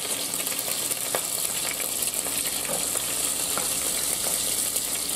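Chicken pieces frying in hot oil and butter in a skillet: a steady sizzle with the grease popping, and a few faint clicks.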